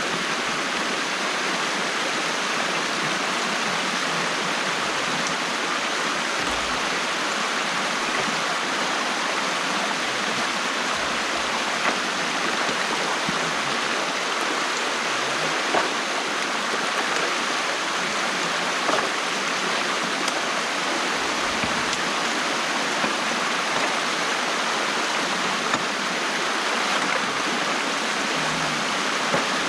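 Water rushing steadily through a beaver dam that is being opened, with a few brief knocks.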